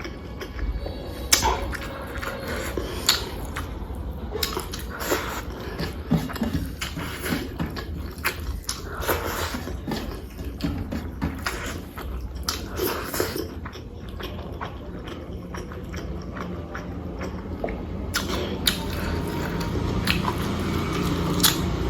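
Close-miked chewing and biting of a person eating, with irregular wet clicks and smacks.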